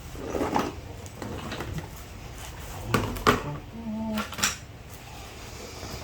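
Clicks and knocks of things being handled while a drawer or case is rummaged through and opened, with the sharpest knocks about three seconds in, over a low steady background hum.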